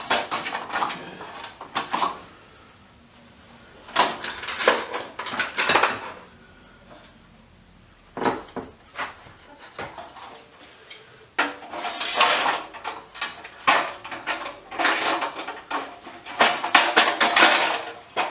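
Small metal scrap parts clattering and clinking as they are handled and dropped, in several bursts with short quiet gaps between.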